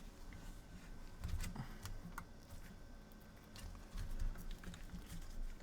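Light, irregular clicks and taps of a PS4 circuit board and small tools being handled on a workbench, over a low steady hum.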